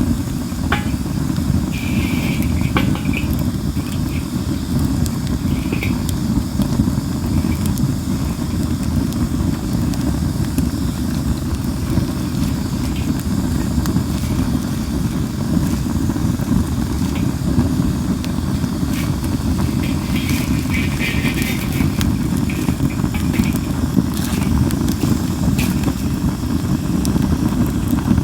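Linden (basswood) firewood burning in a fire pit: scattered crackles and pops over a steady low rumble, with a few short hisses from the burning wood, the longest about twenty seconds in.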